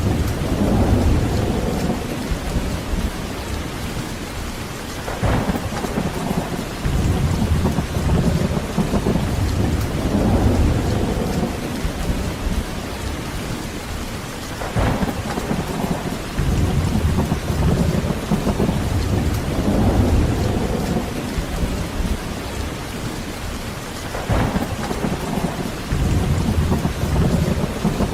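Heavy rain falling steadily, with rolling thunder rumbling in slow swells. Three sharp cracks come about ten seconds apart.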